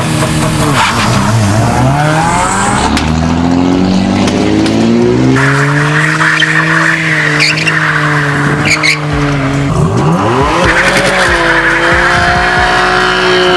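A car engine is revved and held high while the tyres spin and squeal, as in a burnout or doughnuts. About ten seconds in the revs drop briefly, then climb again with the tyres squealing once more.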